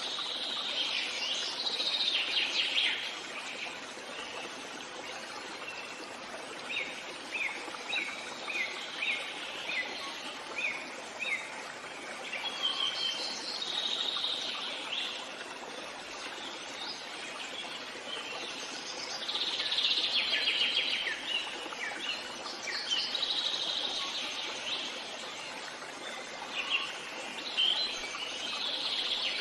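Forest birdsong from several birds: bursts of trilled song, and a run of short, repeated downward chirps about two a second near the middle, over a steady soft background hiss.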